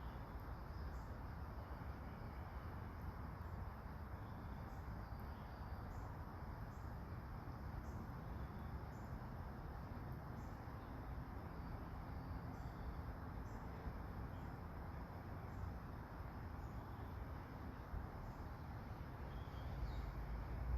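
Soft rain falling steadily, an even low hiss, with faint insects chirping and scattered faint ticks.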